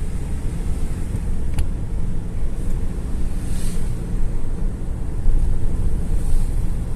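Car driving on the road, with a steady low rumble of engine and tyre noise inside the cabin.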